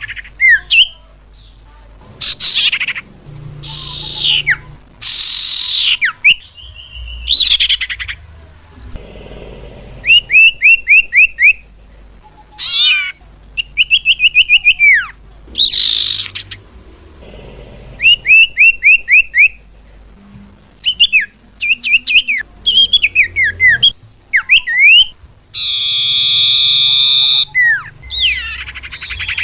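Bird-lure recording of cipau calls: a varied run of high chirps and slurred whistles, with fast trills of short down-slurred notes. A harsh buzzy call comes near the end.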